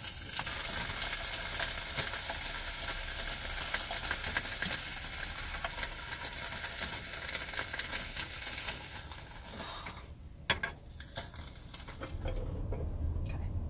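Thin-sliced ham frying in a skillet: a steady sizzle full of small crackles. It dies away about ten seconds in, followed by a single knock and then a low hum near the end.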